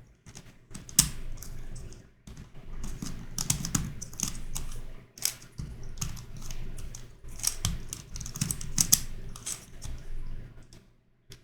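Plastic twisty puzzle, a YuXin Corner Helicopter 2x2, being turned quickly by hand: rapid irregular runs of clicks and clacks as its pieces snap through the turns, with short breaks between runs.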